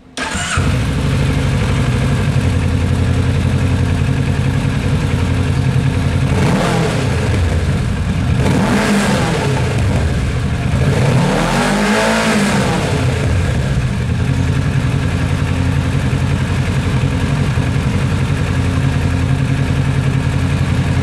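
A Kawasaki Ninja 650's 649cc parallel-twin engine idling, revved up and back down two or three times near the middle.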